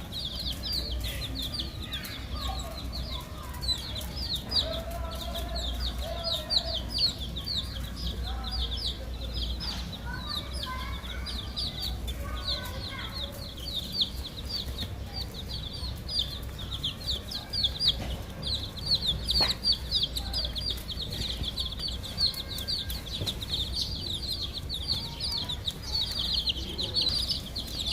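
A group of domestic chicks peeping constantly: a dense stream of short, high, falling peeps, with a few lower calls now and then.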